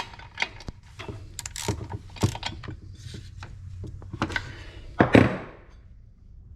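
Ratchet wrench with a 3/4-inch deep-well socket clicking in uneven runs as the spark plug is wound into the chainsaw's cylinder, with a louder metallic clatter about five seconds in.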